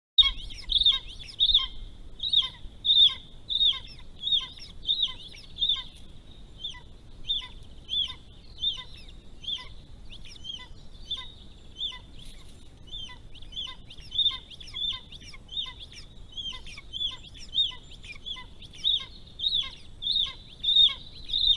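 Golden eagle calling: a long, steady series of short, high yelping notes, about two a second, over a faint low background rumble.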